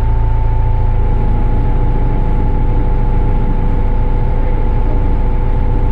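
Caterpillar IT-24 loader's diesel engine running steadily under load, a constant low rumble with a steady whine on top.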